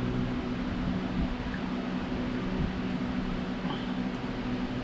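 A fan running steadily: a low hum with an even hiss over it.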